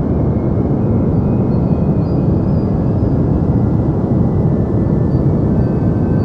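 Synthetic deep white noise: a steady, even low hiss with a rumbling bottom end, unchanging throughout.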